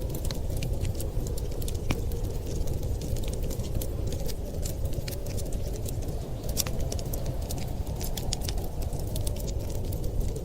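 Wood fire crackling, with many small irregular pops and snaps over a steady low rush.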